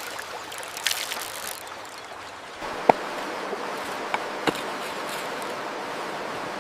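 Stream water running steadily, stepping up a little louder about two and a half seconds in, with a few sharp clicks over it.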